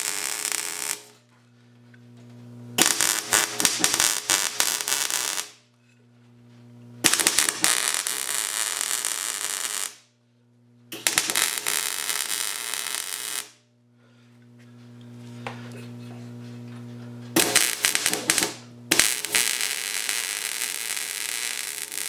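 Welding arc crackling in repeated bursts of about two to three seconds, tacking and stitching sheet-steel patches over rust holes in a snow plow. A steady electrical hum continues between the bursts.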